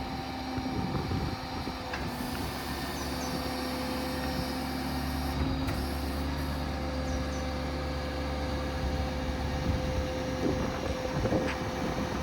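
Ford 6.7 Power Stroke diesel running steadily to drive the hydraulics while the service crane's boom extends, with a steady hydraulic whine from about two seconds in.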